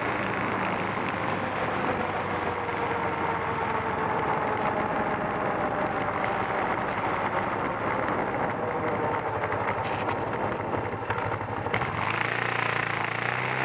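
Kawasaki 454 LTD's parallel-twin engine running while the bike is ridden, over a steady rush of wind. The engine note falls slowly as the bike slows, and about twelve seconds in it settles into a steady low note.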